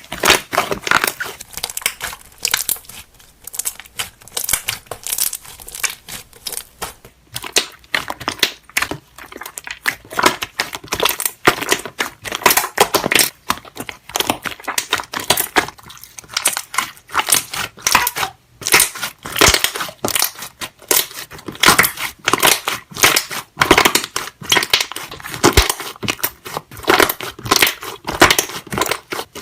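Slime being squished and worked, its trapped air bubbles popping in a dense, irregular stream of small clicks and crackles.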